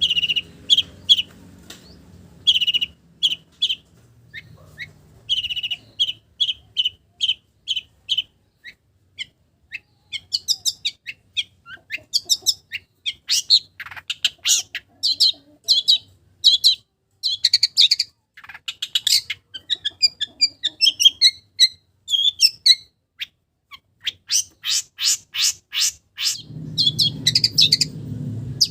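Long-tailed shrike (cendet) singing a varied song of mimicked small-bird calls. It starts with evenly repeated short high notes, about three a second, breaks into mixed chirps and trills, and ends with a fast run of notes.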